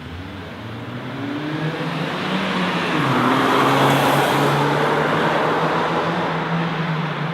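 A BMW E36 driving past: its engine note and the rush of tyre and road noise rise to a peak about four seconds in and then fade.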